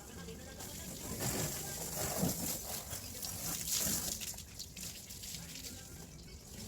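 Water sloshing and dribbling, with irregular splashes, as a car is washed by hand.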